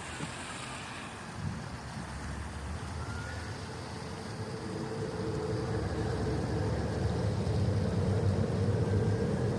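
A motor vehicle's engine running with a low, steady hum that grows louder from about halfway through.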